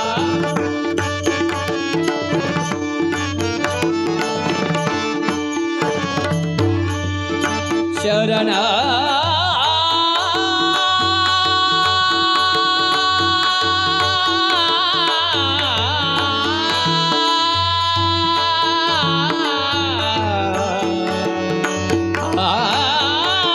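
Marathi abhang (devotional song) with tabla and melodic accompaniment. Busy drum strokes for the first eight seconds, then the singer draws out the word 'sharan' in long, ornamented held notes over the accompaniment.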